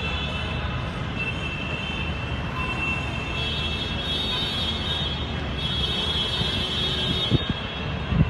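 Steady outdoor rumbling noise with a few high whining tones over it, and a couple of sharp clicks near the end; no blast.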